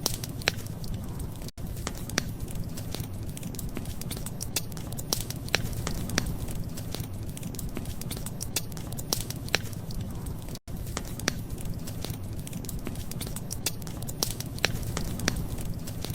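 Fireplace fire crackling, with irregular sharp pops over a steady low rumble. The sound cuts out for an instant twice.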